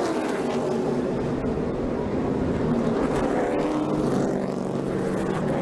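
Several NASCAR stock cars' V8 engines running together on track, a steady blend of engine tones.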